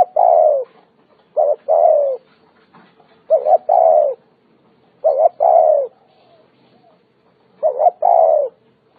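Spotted dove cooing: a phrase of two short quick notes followed by a longer falling coo, repeated about every two seconds.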